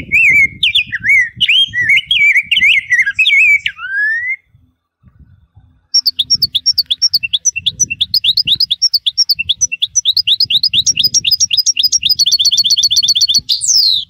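Tui singing: a varied warbling phrase of gliding whistled notes, then, after a short pause, a long run of quick descending whistles that speeds up into a rapid trill and ends on a rising sweep.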